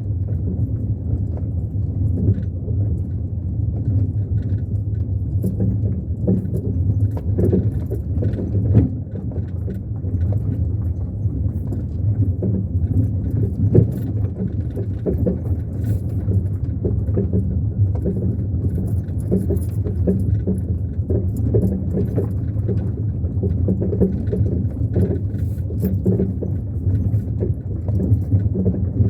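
Car driving along: a steady low rumble of engine and tyres, with frequent small rattles and knocks.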